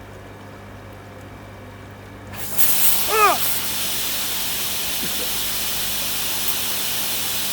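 Pressurised water spraying from an Oase drum filter's spray-bar feed as the clean cycle is run with the lid off. A sudden loud, steady hiss begins about two seconds in, over a low hum. The spray is escaping from a split in the pipe, which the owner takes to be why the drum is not cleaning. A brief yelp comes just after the spray starts.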